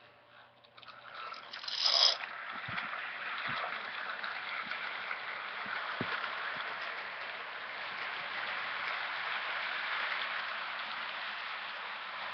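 Lionel model steam locomotive running on its track: a steady rushing whir of the motor and wheels on the rails, building up over the first two seconds, with a few faint clicks.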